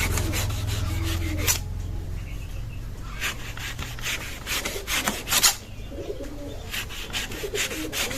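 A blade cutting and scraping through a palm fruit in repeated short strokes, coming in irregular bursts. Birds call in the background.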